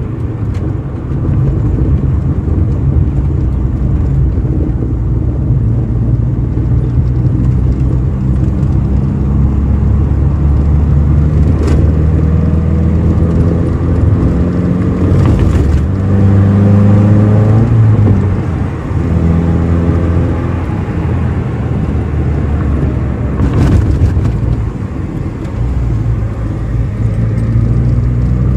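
Toyota Starlet EP81 hatchback's engine and road noise heard from inside the cabin while driving. The revs climb in the middle, the sound dips briefly about two-thirds through, then it runs steadily again.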